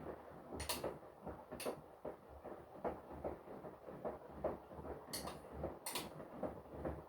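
Washing machine drum turning with laundry tumbling inside: a steady stream of soft knocks and irregular clicks, with a few sharper ticks, cutting off suddenly at the end.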